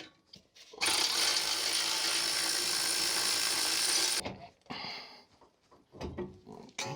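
A handheld power tool runs steadily for about three and a half seconds, undoing a fastener on the car's front suspension, then stops; a few short knocks and clinks of metal parts follow.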